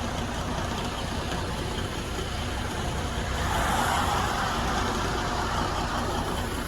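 Steady low rumble of a semi truck's engine mixed with roadway noise, with a louder rush of noise swelling and fading about halfway through.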